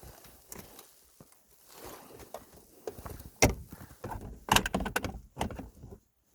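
Clicks, clacks and knocks of a car's gear shifter assembly being handled and worked into the center console, with a sharp knock about three and a half seconds in and a quick cluster of clacks a second later; the sound cuts off suddenly near the end.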